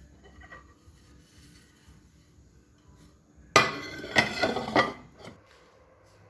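Kitchenware clattering: dishes and cutlery knocked and set down in a quick run of sharp knocks and clinks lasting under two seconds, starting about halfway in.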